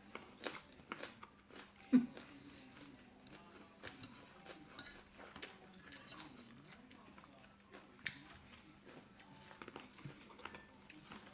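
A person chewing and biting food close to the microphone, with wet mouth smacks and clicks and one sharper pop about two seconds in.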